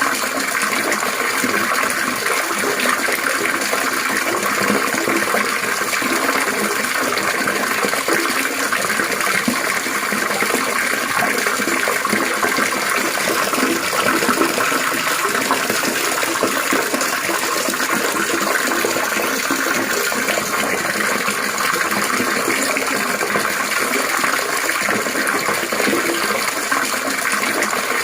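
Water trickling and splashing steadily, a continuous babbling with no breaks.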